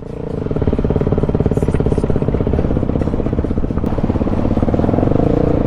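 Single-cylinder four-stroke dirt bike engine running steadily under throttle while riding, fading in over the first moment and then holding an even pitch.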